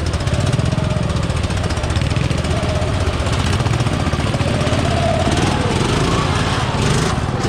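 Off-road vehicle engine running continuously on a trail, its pitch rising and falling with the throttle over a steady low rumble.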